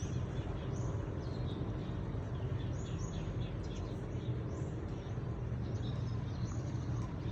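Birds chirping, many short high notes repeating over a steady low hum.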